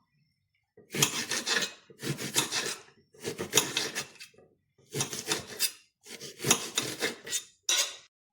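Five bouts of rasping, scraping strokes, each about a second long, separated by short pauses.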